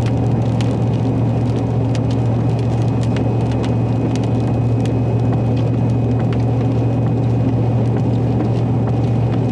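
Steady road and engine drone inside a vehicle driving through heavy rain, with scattered ticks of raindrops striking the windshield and roof.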